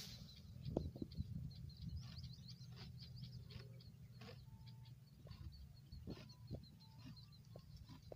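Faint bird chirping: a quick run of short, high repeated notes, several a second. Scattered soft clicks and a low rumble sit under it.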